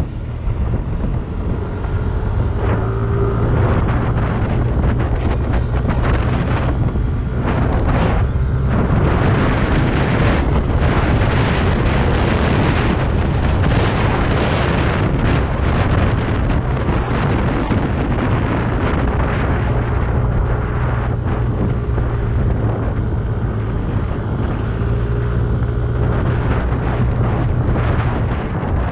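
Yamaha Aerox 155 scooter's single-cylinder engine running steadily on the move, with heavy wind buffeting the microphone.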